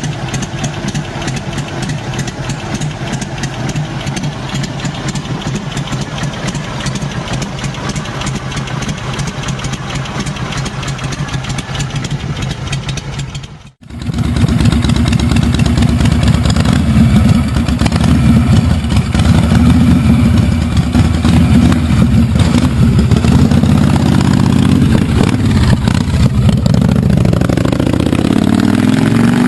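Harley-Davidson V-twin motorcycle engines idling, one recording after another. A short break about 14 seconds in separates them, and the second engine is louder.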